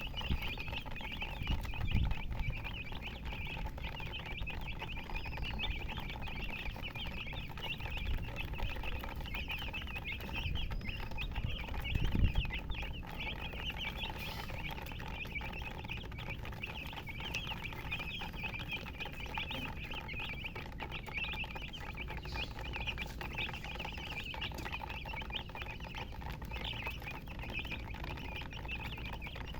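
A group of chickens, chicks by the title's chirping, peeping continuously in a dense chatter of short high chirps. Low thumps come about two seconds and twelve seconds in.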